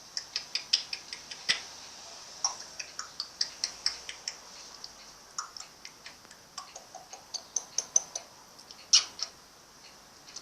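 An irregular series of sharp, high clicks and ticks, several a second, with a louder click about nine seconds in.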